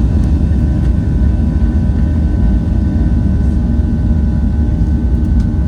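Southwest Airlines Boeing 737 jet engines running: a steady, loud low rumble with a faint steady whine above it.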